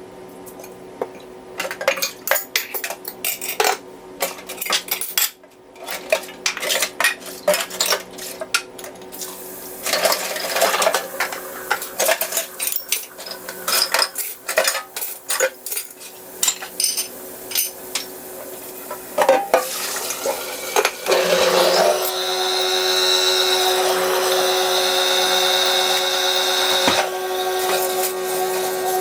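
Repeated clattering, knocks and clinks of hard household items being handled. About 22 seconds in, a steady machine hum with a high whine starts and keeps running.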